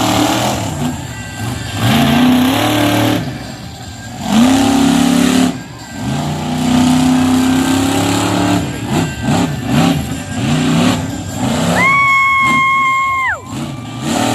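Monster truck engine revving repeatedly, its pitch climbing and dropping again and again. Near the end a high horn-like tone is held for about a second and a half, then slides down.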